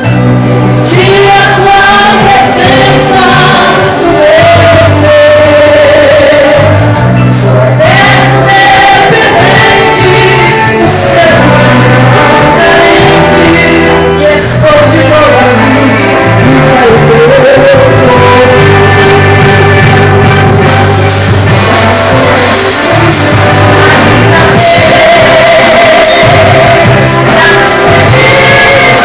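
Live gospel song: a woman singing in Portuguese, backed by an orchestra with steady bass notes, possibly with a choir joining in.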